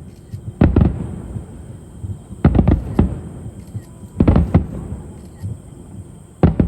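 Aerial fireworks shells bursting overhead: groups of two or three sharp booms about every two seconds, each ringing out briefly.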